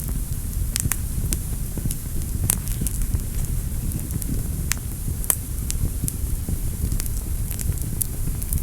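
Wood fire burning in a fireplace: a steady low rumble of flames with sharp crackles and pops scattered irregularly, a few louder ones around a second in, after two and a half seconds and after five seconds.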